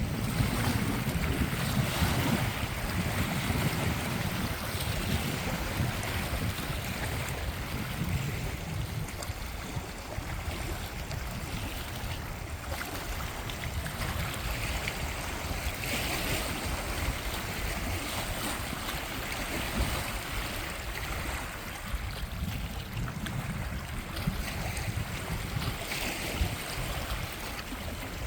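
Steady wind and water noise over a lake, with wind buffeting the microphone in an uneven low rumble.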